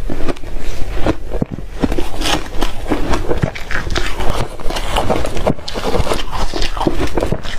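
Reshaved refrigerator ice being chewed close to the microphone: a rapid, irregular run of loud, crisp crunches.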